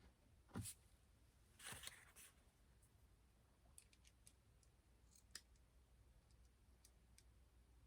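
Quiet handling noises from hands working on kayak outfitting: a soft knock about half a second in, a short scrape near two seconds, then a few faint clicks.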